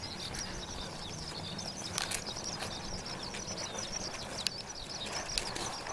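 Outdoor bird chorus: many high, quick chirps running on without pause, over a low rumble of wind. A few sharp clicks stand out, about two seconds in and again near the end.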